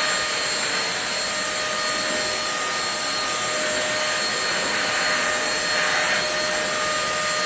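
Intercleaner corded stick vacuum cleaner running steadily: a rush of suction air with a high, steady motor whine.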